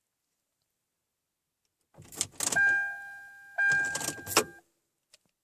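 Car keys jangling and clicking at the ignition of a Kia Sedona minivan, with a steady high electronic tone sounding in two stretches about a second long. No engine catches: this is the minivan's intermittent no-start fault.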